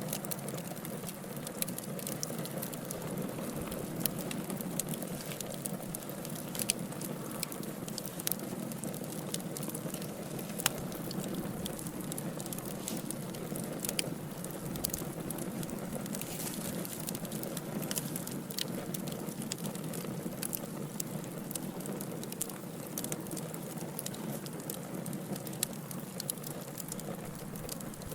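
Wood fire burning steadily, with a constant low rush and many sharp irregular crackles and pops from the burning logs.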